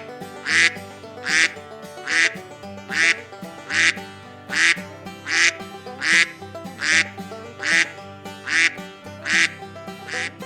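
Duck quacking over and over at a steady pace, about once every 0.8 seconds, over background music.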